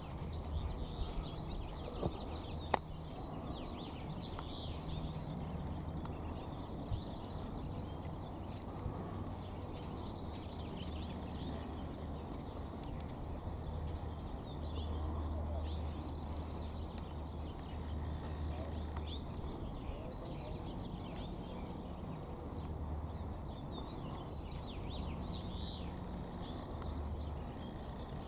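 Small birds giving short, very high-pitched chirps over and over, about two a second, over a low steady rumble.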